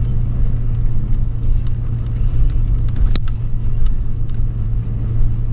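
Steady low rumble of a 2013 Toyota 4Runner SR5 driving, its V6 engine running under way, with one sharp click about three seconds in.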